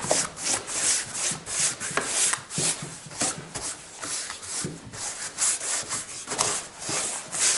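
Wood stain being spread over a wooden window frame in quick rubbing strokes, an uneven swish about three times a second.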